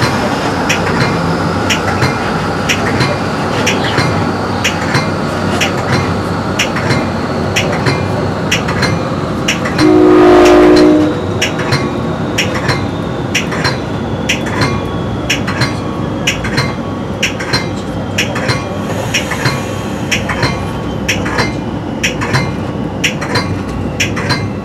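Metra commuter train running at speed, its wheels clicking regularly over the rail joints. About ten seconds in the train horn sounds one loud blast of about a second.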